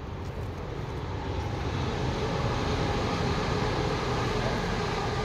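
A passing vehicle's drone that swells over the first couple of seconds, peaks, then slowly eases.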